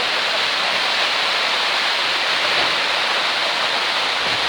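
Heavy storm rain pouring down, a loud steady hiss.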